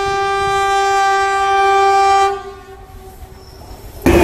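Train horn holding one long steady note, which dies away a little over two seconds in. After a short lull, a loud rushing noise of a train passing close starts suddenly near the end.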